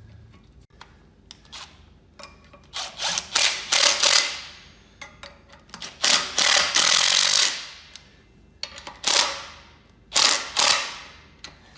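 Clutch pressure-plate bolts being run down with a ratchet in about five short bursts, with a few separate clicks between them.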